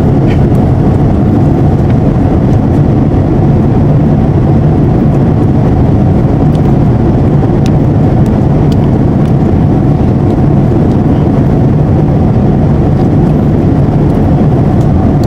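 Steady drone of a jet airliner's cabin in flight: engine and airflow noise, deep and unchanging.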